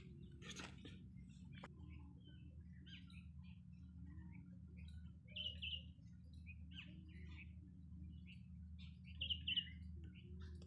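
Faint chirping of small birds: short high chirps scattered throughout, with two louder quick double chirps, one about five seconds in and one near the end, over a low steady hum.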